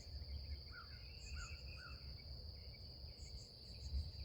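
A steady chorus of insects keeps up a continuous high-pitched trill, with a few faint short chirps about a second in.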